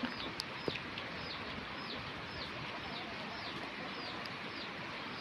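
A bird chirping over and over, short high notes that fall in pitch, about two a second, over faint outdoor background noise.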